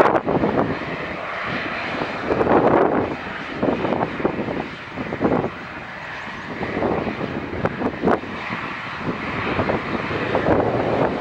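The ATR 72-600's twin Pratt & Whitney PW127 turboprop engines running during its takeoff, heard through gusty wind buffeting the microphone, the level rising and falling with the gusts.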